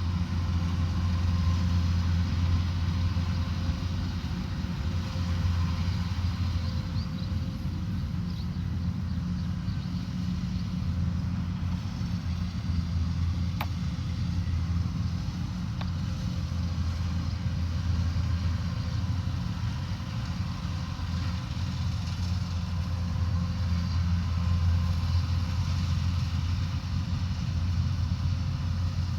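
Combine harvester's engine running steadily with a constant low drone, and a single sharp click about halfway through.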